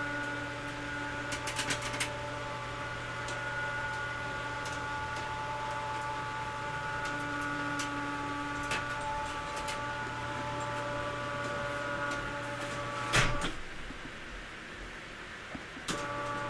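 An electric winch hauls the lift bed on heavy-gauge cable with a steady motor whine. Sharp pops come now and then as the cable rolls over itself on the drum. The winch stops with a loud clunk about 13 seconds in, then runs again briefly near the end.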